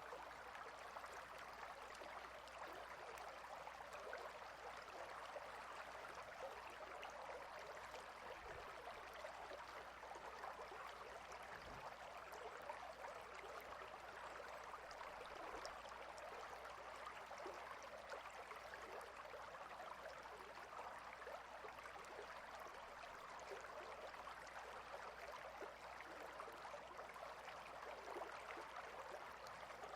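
Clear river water flowing and splashing steadily between rocks, a faint, even rush with no change.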